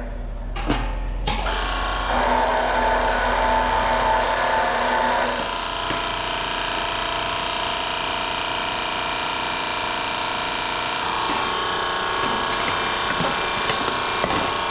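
A power tool running steadily. Its sound changes about a second in and again around five seconds in, with a few light clicks near the end.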